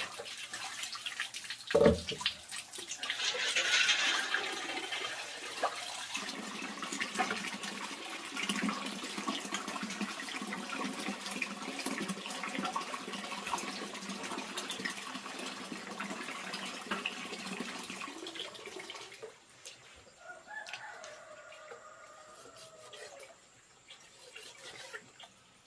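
Water running and splashing, with a sharp knock shortly after the start. Near the end, a rooster crows.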